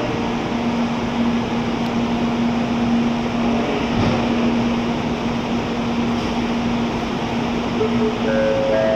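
N700-series Shinkansen train standing at the platform, its on-board equipment giving a steady hum with one constant low tone over the station's noise. A few short tones stepping up in pitch near the end.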